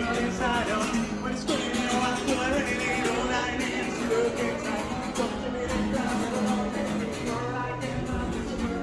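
Guitar music with a voice singing: strummed acoustic guitar and a melody line, steady throughout.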